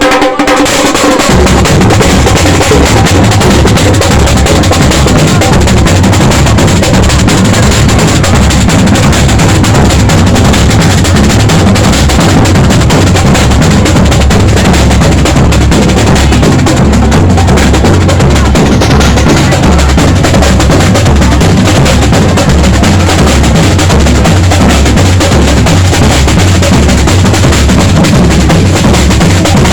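A carnival percussion group of bass drums and snare drums playing a steady, driving rhythm, very loud throughout.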